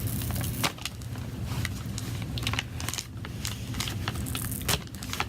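Pry tool working under an iPad Air battery that is glued to the back casing, with irregular clicks, crackles and scraping as the adhesive gives.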